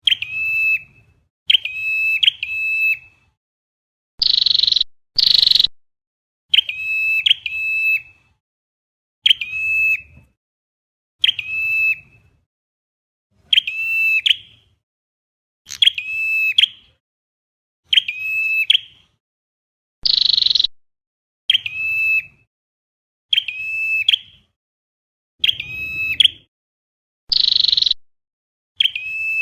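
Recorded flowerpecker calls played back as a trapping lure: short, high calls repeating about every two seconds, mostly in pairs of clipped notes, with a broader buzzy note a few times (about 4, 20 and 27 seconds in).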